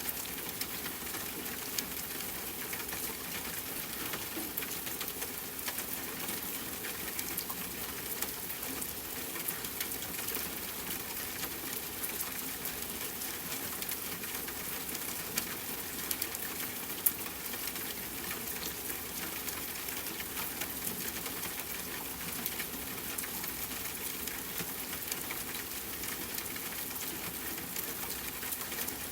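Steady rain pattering on a tent, mixed with the crackle of a campfire, an even hiss full of fine ticks. One sharper pop comes a little past halfway.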